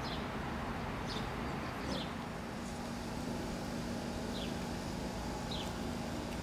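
Outdoor park ambience: a steady low background rumble with a faint hum, and about five short, high, falling bird chirps spread through it.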